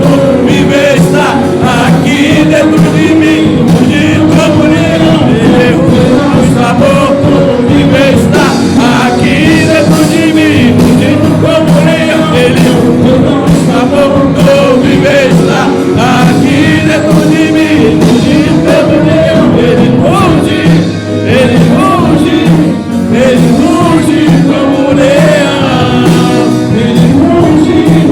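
Church praise band playing a worship song with singing, loud and continuous.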